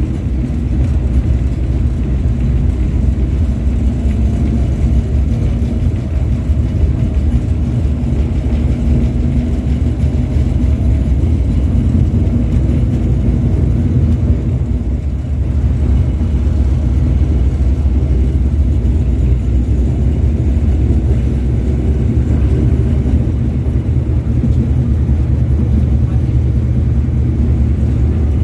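LVS-86K tram running between stops, heard inside the passenger saloon: a steady low rumble of wheels on rails with a faint whine from the traction motors.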